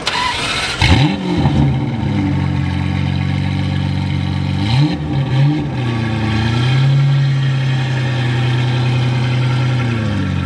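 Ferrari 512 TR's flat-twelve engine idling and being revved: blipped sharply about a second in and again around five seconds, then held at a raised speed for a few seconds before dropping back toward idle near the end.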